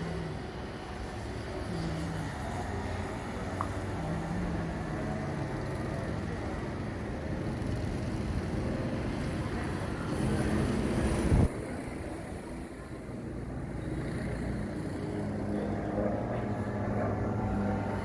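Go-kart engines running on a track, their pitch rising and falling as they speed up and slow down, with a sharp knock about eleven seconds in.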